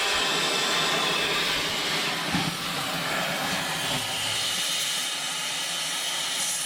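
Cutting torch hissing steadily as it cuts through the last welded steel leg of a grain bin.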